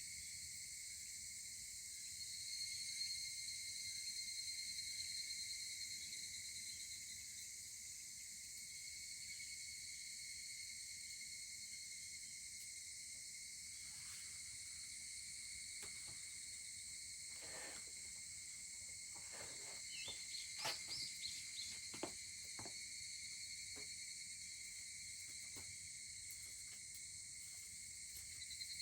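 Steady evening chorus of crickets and higurashi cicadas, the cicadas swelling a couple of seconds in and again near the end. A scattering of short crackles and pops from the wood fire comes in the middle, loudest about two-thirds of the way through.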